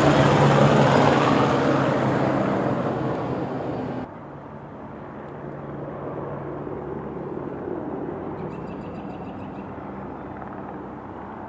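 Spray helicopter flying past, its rotor and engine noise loud at first and fading, then dropping suddenly about four seconds in to a fainter, steady distant drone.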